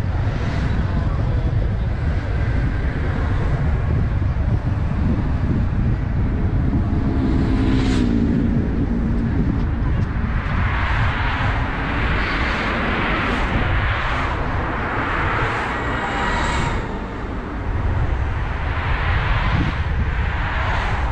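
Car driving on the road: a steady low rumble of road and wind noise, with several louder hissing swells from about halfway through.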